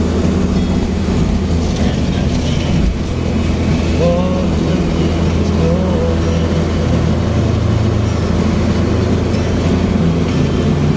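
A car's engine and road noise, a steady low drone.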